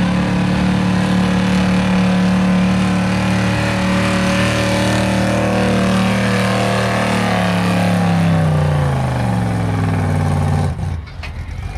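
1977 Ford F-350 stock gas truck engine at full throttle pulling a weight sled. It holds steady high revs, then the revs sag over a few seconds as the sled bogs it down. Near the end the throttle is let off and the engine noise drops sharply.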